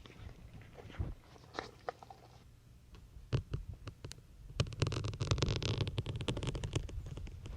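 Syringe needle being pushed into a soft sponge. A few light clicks and taps are followed, from a little past halfway, by about three seconds of dense crackling crunch as the needle works through the foam.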